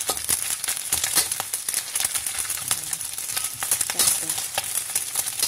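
Ikan bilis (dried anchovies), dried shrimp and chopped garlic sizzling in a little oil in a wok, with a steady hiss. A metal spatula scrapes and clicks against the wok as they are stirred and turned.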